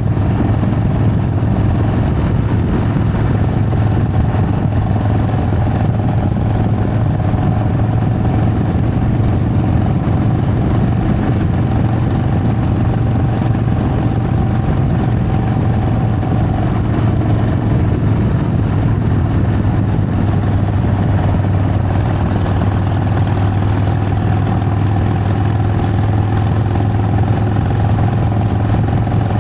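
Harley-Davidson Sportster's V-twin engine running steadily, holding an even pitch with only slight changes throughout.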